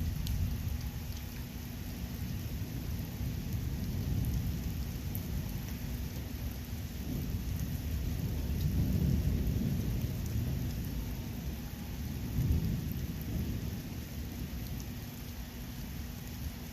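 Thunder rumbling in several slow swells over steady rain as a thunderstorm dies down, with the low steady hum of an oscillating fan underneath.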